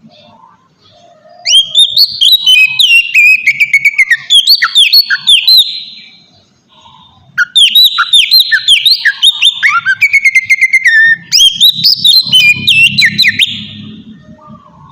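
Oriental magpie-robin (kacer) singing: three loud phrases of rapid, varied whistled notes, many of them falling, with short pauses between phrases. It is lure song meant to provoke other kacer into answering.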